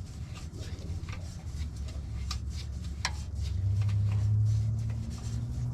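A few sharp clicks of metal tools and car parts being handled, over a steady low hum that swells briefly about three and a half seconds in.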